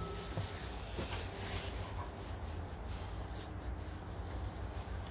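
Cloth wiping dust off the rubber tire of a 14-inch bandsaw wheel: a steady rubbing.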